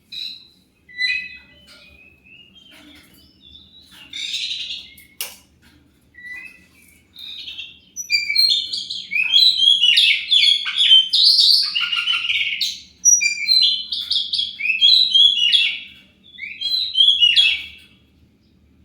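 Oriental magpie-robin (kacer) singing rapid, varied phrases, a lure song of the kind played to make other magpie-robins answer. The phrases are scattered and softer for the first several seconds, then come loud and almost without a break for about ten seconds before stopping near the end.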